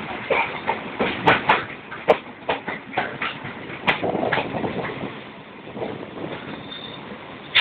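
A train's wheels running over the rails, heard from aboard a moving coach: irregular sharp clicks and knocks from the rail joints over a steady running noise, with the knocks growing sparser after about five seconds.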